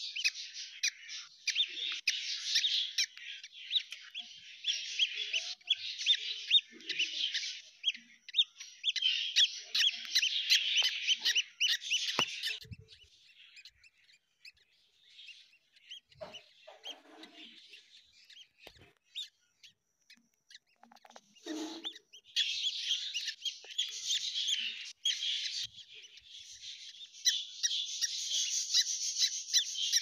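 Dense, rapid, high-pitched bird chirping. It drops away about twelve seconds in, leaving only faint scattered chirps, and returns at full strength around twenty-two seconds.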